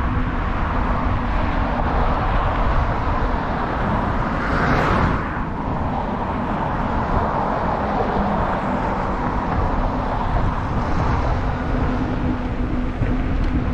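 Wind buffeting the microphone on a moving bicycle, with a steady low hum throughout. A vehicle passes about four to five seconds in.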